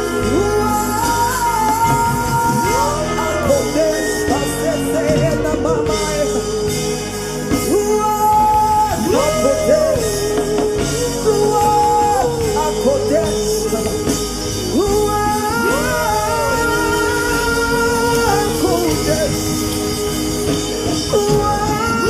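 Gospel worship song: a lead voice sings long, gliding melodic lines without clear words over a steady instrumental backing.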